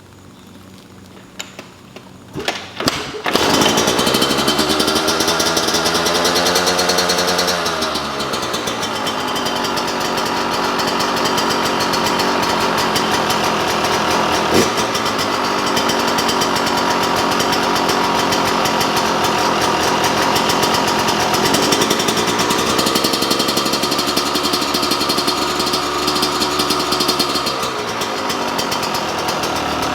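2021 Yamaha YZ125 two-stroke engine kick-started, catching about three seconds in after a few knocks, then running loudly on fresh spark plug and fresh oil. The revs climb and drop back twice, once just after it catches and again near the end, with steady running between.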